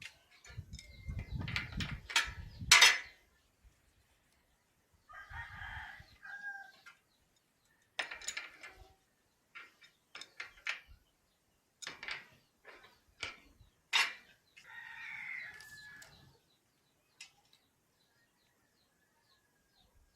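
A rooster crowing twice, about ten seconds apart, among scattered knocks and clatters; the loudest is a sharp bang about three seconds in.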